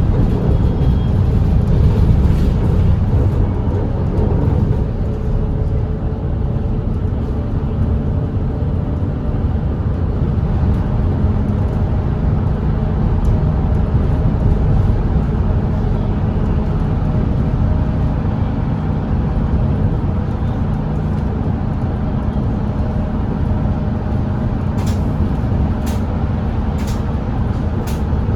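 Volvo B8RLE double-decker diesel bus cruising at steady expressway speed: a steady low engine drone under road and tyre rumble. A few short sharp clicks near the end.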